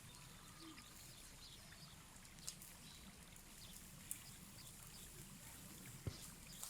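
Near silence: faint outdoor background hiss with a few faint, sharp clicks.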